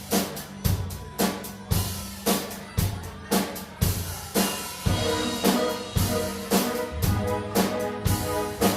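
Live band's drum kit playing a steady beat of snare and bass drum, about two hits a second, with pitched instrument chords joining about halfway and a bass line coming in near the end.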